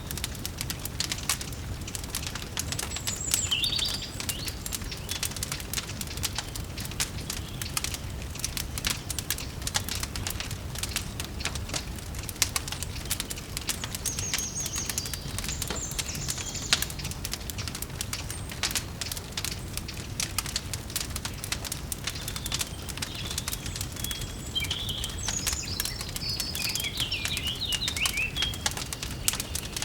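Wood fire crackling with dense small pops over a low rumble, while birds chirp a few times: once about three seconds in, again mid-way, and in a longer run of chirps near the end.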